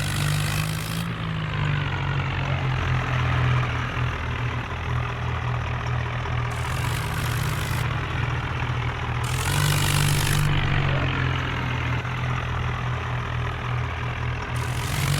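Tractor diesel engine running steadily with a deep, even hum, surging louder and hissier for a second or so several times.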